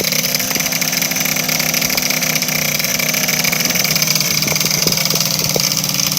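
Small motorbike engine idling steadily at a constant pitch, with a few faint clicks over it.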